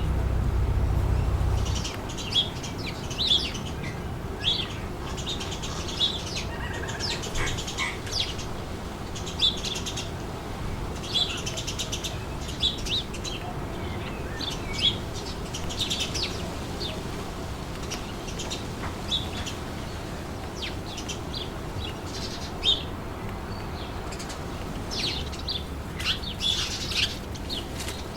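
Small birds chirping in quick, irregular bursts throughout, over a steady background of wind. A low rumble, typical of wind on the microphone, drops away about two seconds in.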